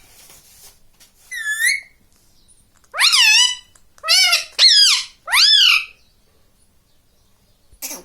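Ringneck parrot calling: five short, high calls, each bending up and then down in pitch.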